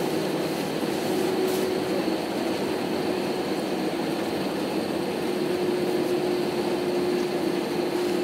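Steady cabin noise inside an Airbus A319-132, its IAE V2500 engines running with an even hum, as heard from a seat behind the wing on the ground just after landing.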